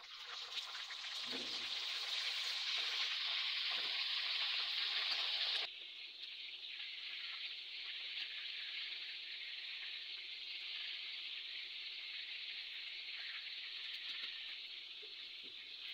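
Coated tuna slices sizzling as they fry in hot oil in a frying pan. The sizzle is louder for the first few seconds, then drops suddenly about six seconds in and carries on steadily.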